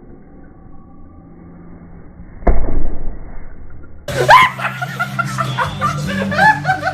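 Faint low hiss, then about two and a half seconds in a sudden loud, distorted blast that lasts about a second and a half. From about four seconds, music with voices comes in.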